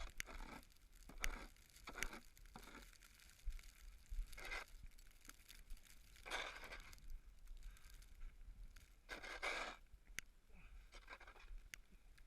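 Snow crunching and scraping in a dozen irregular short bursts, the longest about six and nine seconds in.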